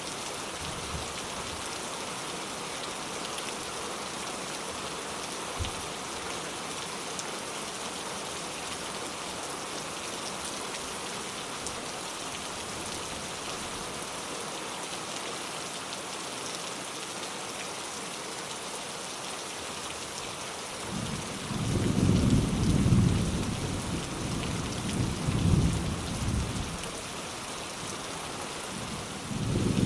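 Steady rain falling, then about two-thirds of the way through low thunder rolls in, swelling and fading a few times and rumbling again near the end.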